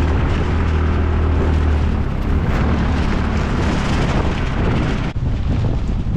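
A vehicle engine running steadily with a low hum and wind rushing on the microphone; after about two seconds the hum gives way to the rushing noise.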